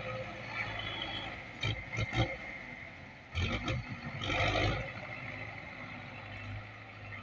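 Tractor engine running steadily, with two spells of louder knocking and rattling, about two seconds in and again around three and a half to five seconds in.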